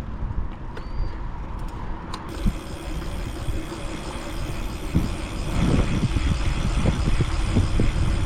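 Road traffic noise, likely a vehicle going by, with low gusty wind rumble on the microphone of a moving bicycle. It grows louder through the second half.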